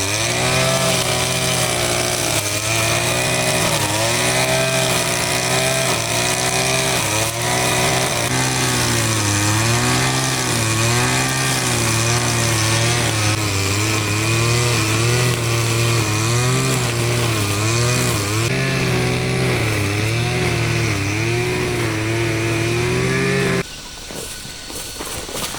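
A small petrol engine runs loudly, its pitch rising and falling about once a second, then cuts off suddenly near the end.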